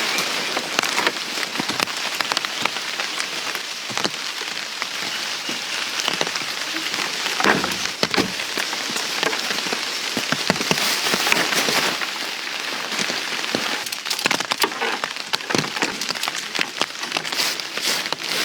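Heavy rain falling steadily, with many separate drops striking a nearby surface.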